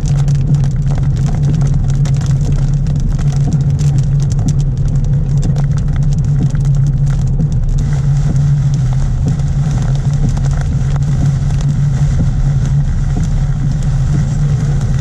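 Steady low hum of a vehicle's running engine heard inside the cab, with rain drops ticking against the windshield and roof.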